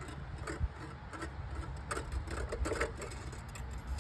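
Scattered, irregular light clicks and clinks of metal parts being handled during an oil check on the tractor, over a steady low rumble.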